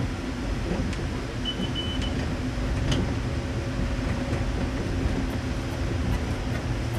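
Narrow-gauge electric train running along the track: a steady low rumble, with a couple of light clicks and a brief high squeal about one and a half seconds in.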